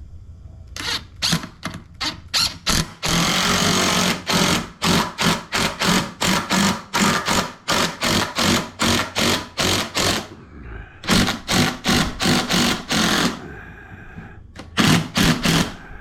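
Power drill run in rapid short trigger bursts, about three a second, with one longer steady run early on, as it drives screws into the workbench frame.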